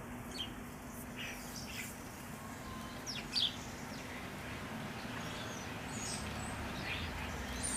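Bird chirping: scattered short, high calls with gaps between them, the loudest about three seconds in, over a steady hiss and a faint low hum.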